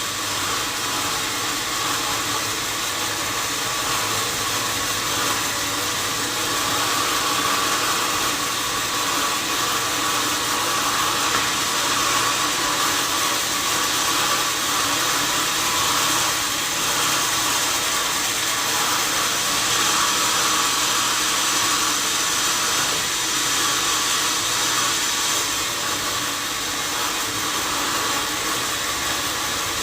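Sawmill machinery running steadily: a continuous mechanical whir and hiss with a low hum underneath, the even noise of a sawmill saw at work.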